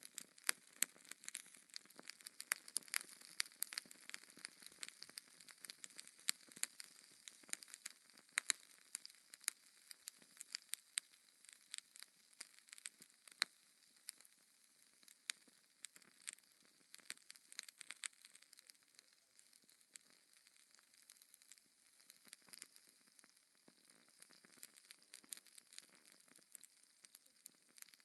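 Wood fire in a fireplace crackling, with frequent irregular sharp pops and snaps over a soft hiss.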